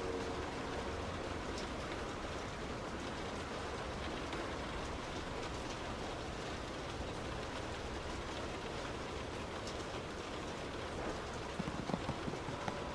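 Heavy rain on a moving car, an even steady hiss of rain and wet road. A brief cluster of sharp knocks comes near the end.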